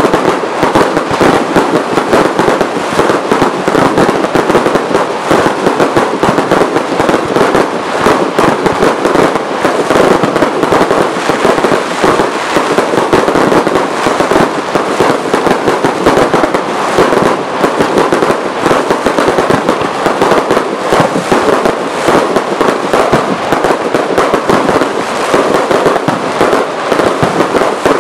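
Professional fireworks display in full barrage: a loud, dense, unbroken run of shell bursts and crackling, with no pause between bangs.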